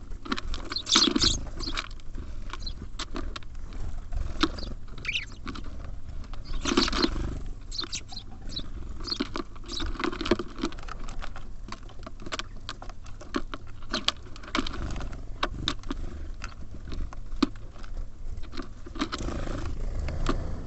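Small songbirds such as tits and sparrows at a feeder, tapping and pecking at seed in a quick, irregular run of clicks, with a few short high chirps and some brief louder rustles.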